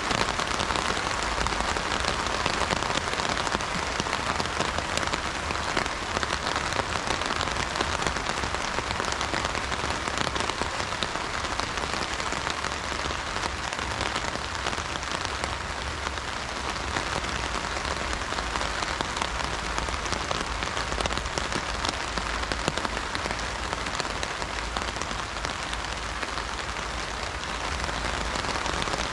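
Steady heavy rain pattering on an umbrella, a dense even hiss of close drop impacts on the fabric.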